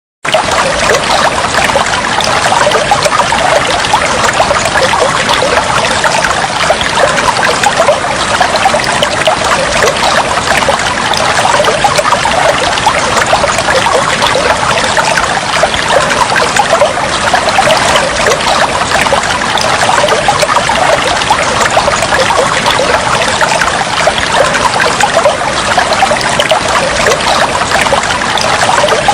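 Flowing water trickling steadily, a dense even patter of small splashes without let-up.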